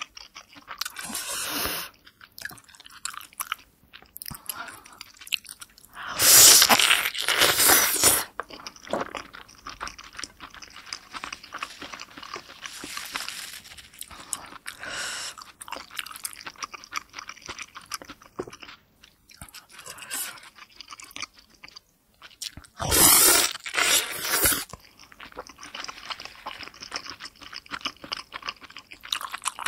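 Close-miked chewing and biting of a large, juicy steamed pork momo, with two louder stretches of about two seconds each, about six seconds in and about twenty-three seconds in.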